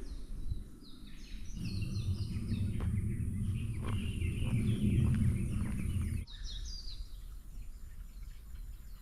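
Forest birds chirping in quick series of short, falling high notes. A low rumble sits underneath for a few seconds in the middle and stops abruptly about six seconds in.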